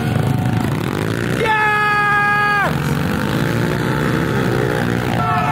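Several pit bike engines racing, revving up and down as they pass. About one and a half seconds in, one engine is held at a high, steady pitch for about a second and then drops away as it is backed off.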